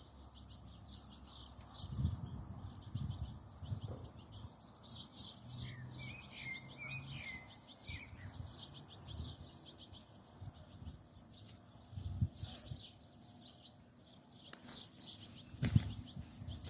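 Small birds chirping in quick, high-pitched, continuous runs, with a short warbling phrase about six seconds in. A few low thumps break in, the loudest near the end.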